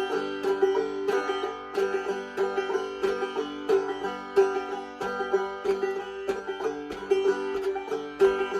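Five-string banjo played clawhammer (frailing) style: a steady, repeating pattern of picked notes and brush-strums, with the thumb sounding the drone string in the rhythm.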